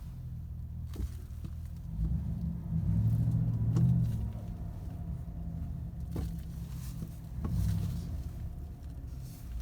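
Pickup truck's low vehicle rumble, swelling louder twice, with a few light clicks.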